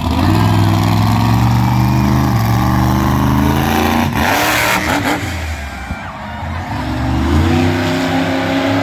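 A high-powered truck engine running hard at full throttle, its note holding and stepping in pitch. It eases off about halfway, with a short burst of noise, then builds again toward the end.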